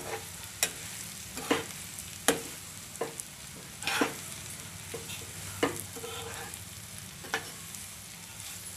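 Sliced potatoes, onions and spices frying in oil in a wok, with a steady sizzle, while a slotted spatula stirs and tosses them. The spatula knocks and scrapes against the pan in irregular strokes, about one every second.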